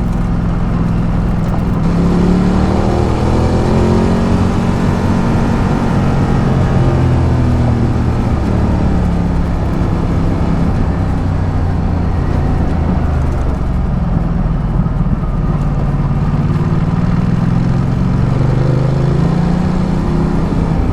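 Ducati Multistrada 1200's V-twin engine running on the move, its pitch rising and falling again and again with throttle and gear changes, over steady wind and road noise.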